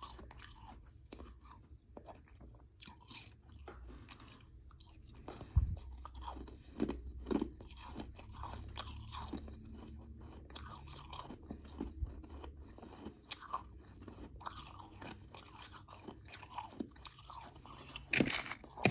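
Close-up chewing of powdery freezer-frost ice with some chunks: a run of soft, irregular crunches, with sharper, louder bites near the end.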